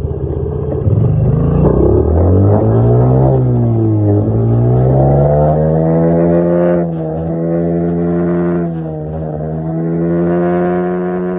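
Dirt bike engine revving under way. The pitch climbs from about a second in, drops back briefly around four seconds in, climbs again and then holds fairly steady at speed.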